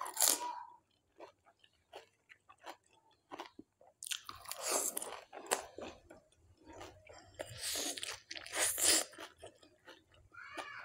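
Close-up chewing and crunching of crisp pani puri shells filled with spiced water, with many small mouth clicks and three louder bursts: at the start, about four seconds in, and around eight to nine seconds in.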